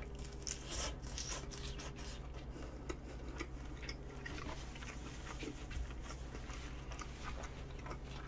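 Close-miked chewing of crisp salad vegetables: a run of quick crunching crackles, densest between about half a second and two seconds in and sparser after, over a faint steady low hum.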